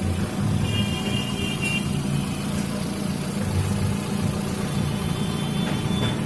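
Engine running at a steady idle, with brief thin high-pitched tones about a second in and again near the end.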